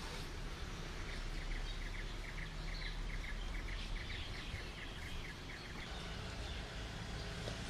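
Outdoor ambience: a small bird repeating a short, high chirp about four times a second, stopping about five and a half seconds in, over a low steady rumble.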